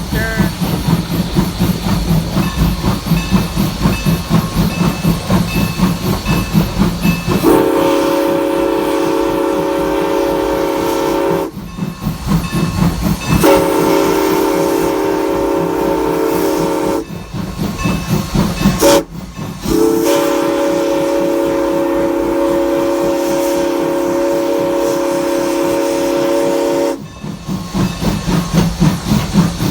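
Steam locomotive working with a steady chuffing exhaust. Its Southern Pacific six-chime whistle then blows four blasts, long, long, short, long: the grade-crossing signal. The chuffing comes back after the last blast near the end.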